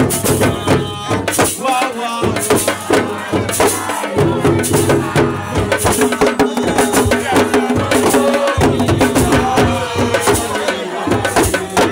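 Singing voices over fast drumming and percussion.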